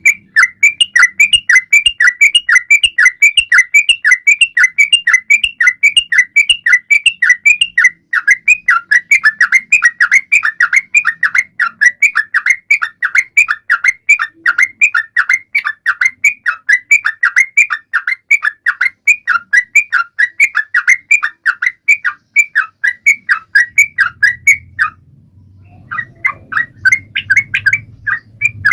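Yellow-vented bulbul (trucukan) singing a fast run of short, clear, falling notes, about three or four a second. It breaks off for about a second near the end, then carries on.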